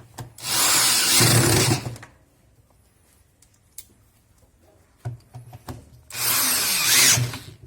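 Power drill/driver running in two bursts of about a second and a half each, driving bolts back in while the washing machine is reassembled.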